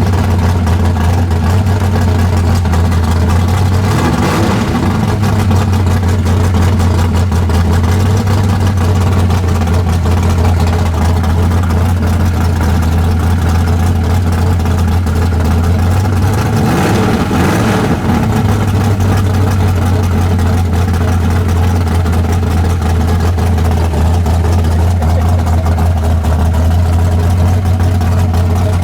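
Car engine idling steadily, with two brief rises and falls in pitch about four and seventeen seconds in.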